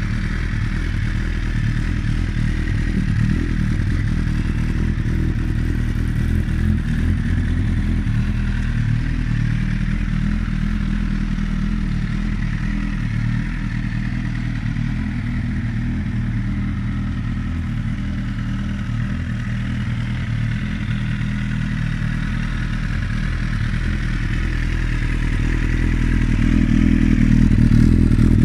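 2015 Suzuki GSX-R1000's inline-four engine idling steadily through an Akrapovič carbon slip-on muffler, getting somewhat louder over the last few seconds.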